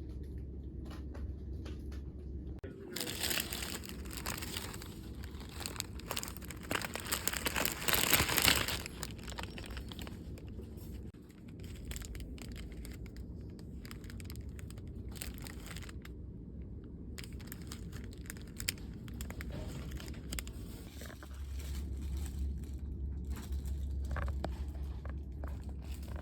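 Crinkling and rustling of paper or plastic being handled, busiest from about three seconds in and loudest around eight seconds, then fading to scattered small crackles over a steady low hum.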